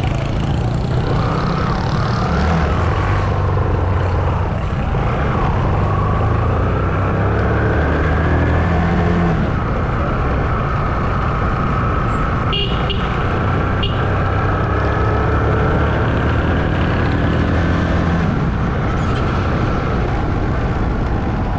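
Small motorcycle engine running steadily as it rides through street traffic, its pitch rising and falling with the throttle. Two short horn toots sound a little past the middle.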